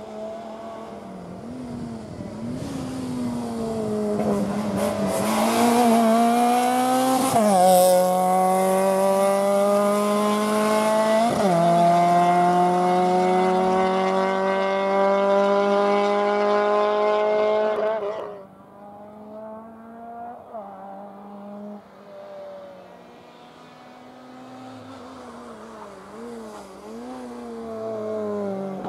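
Fiat Seicento's small four-cylinder engine revving hard under full acceleration, its pitch climbing through the gears with two upshifts, about 7 and 11 seconds in. About 18 seconds in the loud engine sound cuts off abruptly, giving way to a quieter engine revving up and down as the car works through the slalom cones.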